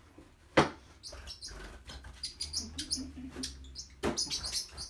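Pet bird chirping in short, high squeaky chirps, with a sharp tap about half a second in and another about four seconds in.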